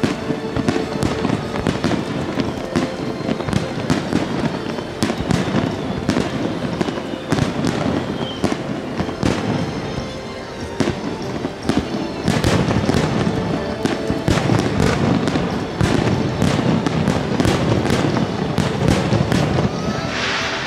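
Aerial fireworks display: a dense run of bangs and crackles over a continuous rumble, getting busier about halfway through.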